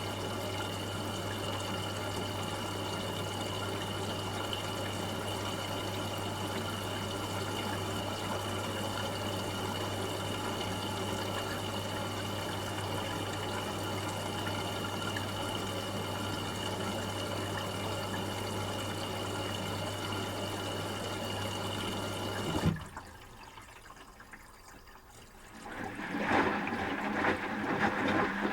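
Asko W6098X washing machine in its first rinse: water rushing through the machine over a steady electrical hum. About 23 s in, the hum and water noise stop at once with a click. A few seconds later a rougher, uneven sloshing sound starts up.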